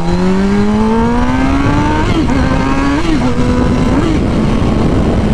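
Kawasaki 636 sport bike's engine pulling up through the revs, then three brief throttle blips about a second apart before settling to a steady cruise. Heavy wind rumble on the bike-mounted microphone.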